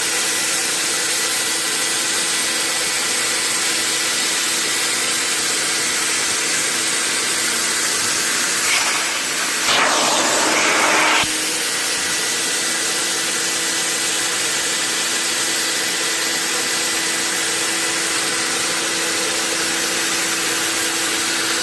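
Carpet extractor (wet vacuum) running steadily, a motor hum with a faint high tone; about ten seconds in, a louder rushing hiss lasts about a second and a half as the wand works the carpet.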